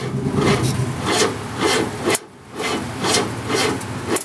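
Oldsmobile 350 V8 running, with a rasping sound repeating about twice a second over it; about halfway through a sharp click is followed by a brief drop in level.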